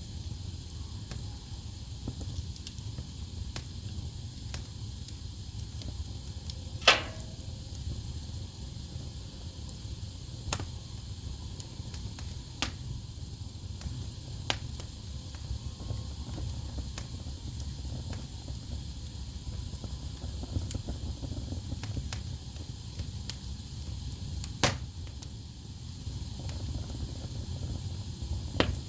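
Wood fire burning in a fireplace: a steady low rumble of flames with scattered crackles and sharp pops of the logs, loudest about seven seconds in and again late on.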